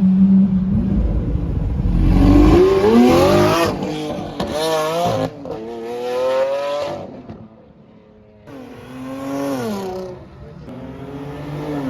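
A car accelerating hard away, its engine pitch climbing and dropping back several times as it shifts up through the gears. It fades out, then another engine revs up and back down twice.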